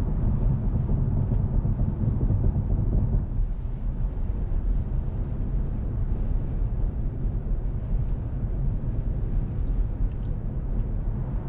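Steady road and tyre noise of a Tesla Model 3 Performance driving on the highway, a low rumble heard from inside the car, easing slightly about three seconds in. The car is electric, so there is no engine note.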